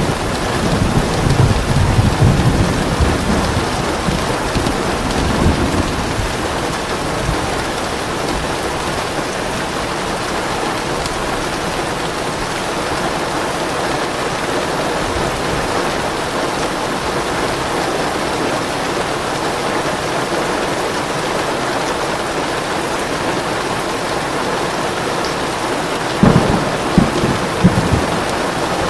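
Steady heavy rain with rolls of thunder: a low rumble in the first few seconds and a sharper thunderclap with rumbling near the end.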